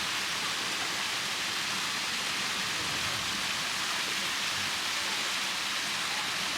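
Steady rush of water from a small waterfall, an even hiss without breaks.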